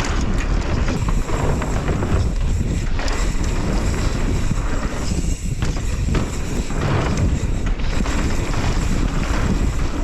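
Wind buffeting the microphone of a mountain biker's action camera during a fast trail descent, mixed with tyre noise and rattles and knocks from the bike over the rough ground.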